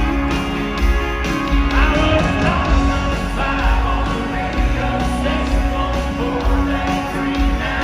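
Live country band playing at full volume over a concert PA, with a male lead vocal singing over drums, bass and guitars.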